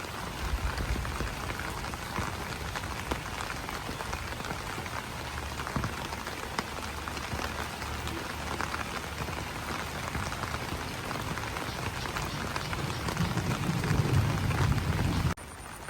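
Rain falling on banana leaves: a dense, steady patter of many drops over a low rumble. It swells louder near the end, then drops suddenly to a quieter patter.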